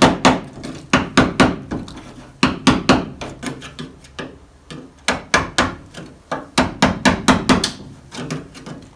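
Hand hammer striking the sheet metal of a 1965 Mercury Comet's rear quarter panel in quick runs of blows with short pauses between, the panel ringing with each hit.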